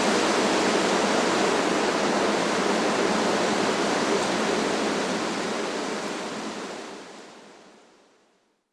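Strong wind rushing through trees, a steady dense rush that fades out over the last few seconds to silence.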